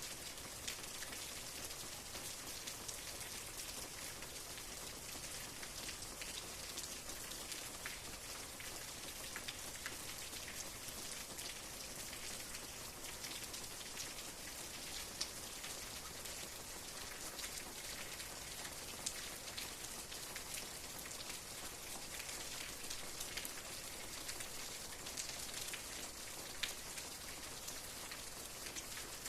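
Steady rain falling, an even hiss with many individual drops ticking on a surface, a few of them sharper and louder.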